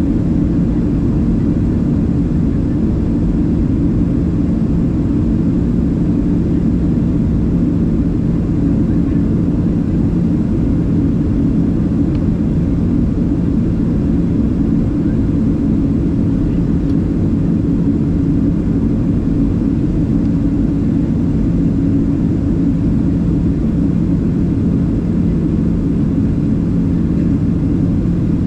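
Steady cabin drone of a Boeing 737-700 in flight: jet-engine and airflow noise heard inside the passenger cabin, a low rumble with a couple of steady hum tones, unchanging throughout.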